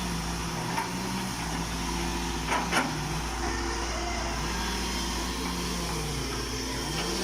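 Hitachi EX120-1 hydraulic excavator's diesel engine running, its pitch sagging and rising again as the hydraulics take and release load, with a couple of sharp knocks about a second in and near three seconds in.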